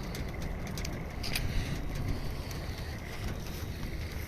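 Rain arriving in a thunderstorm: a steady low rumble of wind buffeting the phone's microphone, with scattered sharp ticks of raindrops.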